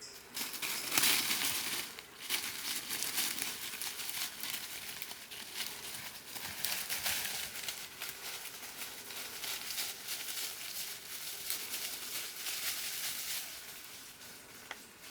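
Dense rustling and crackling of leaf litter and undergrowth being moved through, loudest about a second in and dying away shortly before the end.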